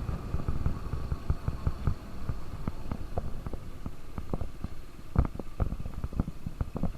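Wind buffeting the microphone of a moving KTM RC 200 motorcycle: an irregular low rumble with uneven thumps, and a faint steady engine tone underneath.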